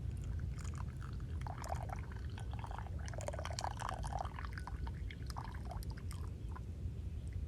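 Tea being poured, a gurgling, trickling stream that starts just after the opening, is fullest in the middle and trickles off before the end, over a steady low rumble.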